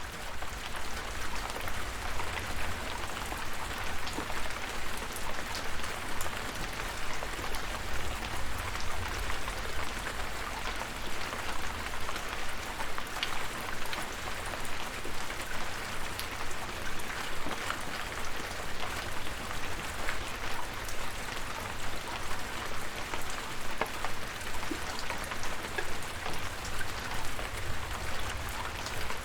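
Steady rain, an even hiss with many individual drops ticking on a surface, over a steady low rumble.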